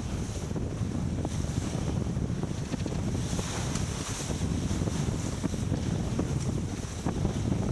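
Wind buffeting the microphone over water rushing along a sailboat's hull under way, with a louder hiss about three seconds in.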